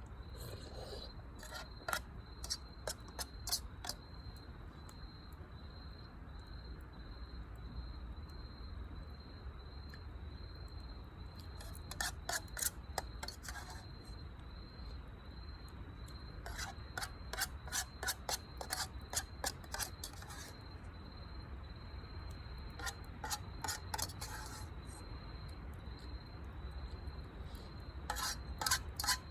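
Metal spoon scraping against a plate, in runs of quick rasping strokes that come in several separate bouts, over a steady low rumble.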